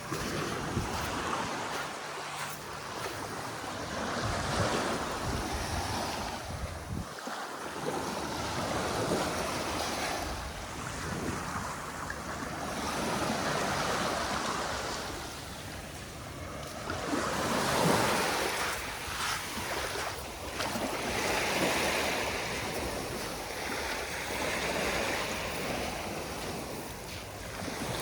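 Sea waves washing onto the beach, the surf swelling and fading every few seconds, with wind buffeting the microphone.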